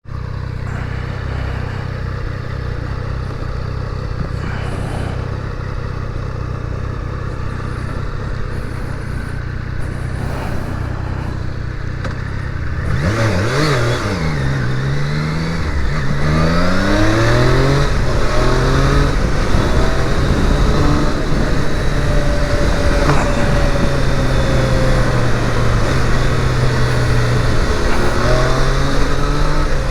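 Triumph Daytona 660's inline three-cylinder engine running steadily at low revs, then, about 13 seconds in, revving and accelerating hard. Its pitch rises and drops repeatedly with each gear change, and it gets louder from there on.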